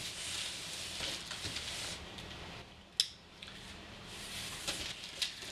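Rustling and crackling of a cardboard box and its paper packing being handled, with a single sharp click about three seconds in.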